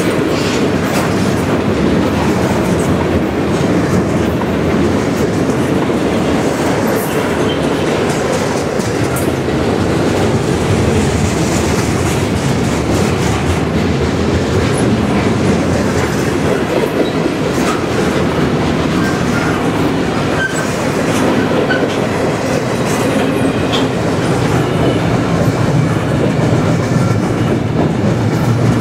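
Double-stack container well cars of a freight train rolling past at close range: a steady rumble of steel wheels on the rails, with repeated clickety-clack from the wheels over the track.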